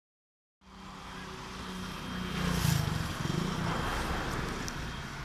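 Boeing 727 trijet's engines running: steady jet noise with a low hum and a thin high whine. It cuts in suddenly about half a second in and swells to its loudest a little before the middle.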